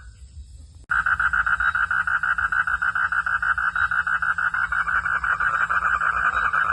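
A chorus of calling frogs gives a fast, even pulsing trill. It cuts out for about the first second, then comes back abruptly at full strength.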